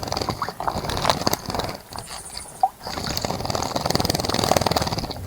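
A bird splashing in a bird bath, its wings beating rapidly in the water in two bouts with a short pause about two seconds in.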